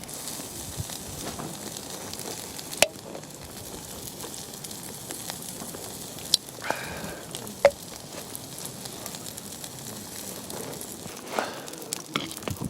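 Campfire of wood cat-litter pellets burning with a steady hiss and crackle, broken by a few sharp pops, about three seconds in and twice more between six and eight seconds.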